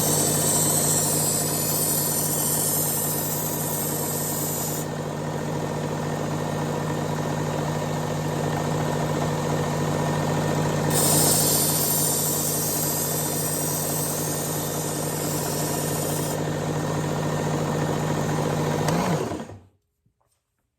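Work Sharp powered belt knife sharpener running with a steady motor hum, the knife blade drawn across the X100 abrasive belt twice, each pass adding a high grinding hiss for several seconds. The motor is switched off near the end and spins down.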